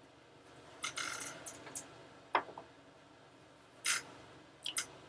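Close handling noises: a few short rustles and scrapes, a sharp click about two and a half seconds in, and two quick scrapes near the end.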